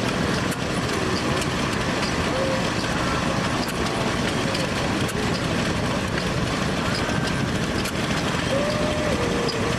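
Steady din of running engines with faint voices in the background and a few scattered clicks.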